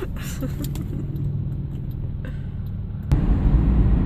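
Steady low road rumble inside a moving car. About three seconds in there is a sharp click, and the rumble turns much louder.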